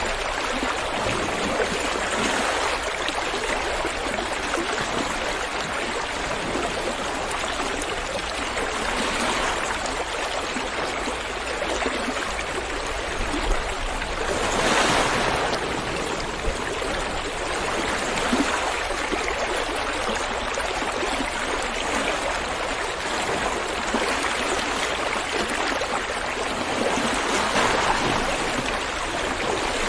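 Running water: a steady, dense rush, swelling a little louder every several seconds.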